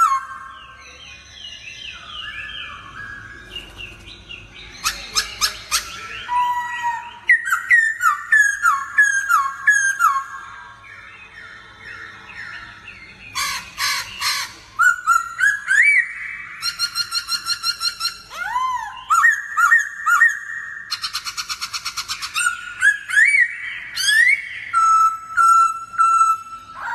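Songbird singing at close range: a varied song of clear whistled notes, repeated down-slurred phrases, rising and falling glides, and fast rattling trills.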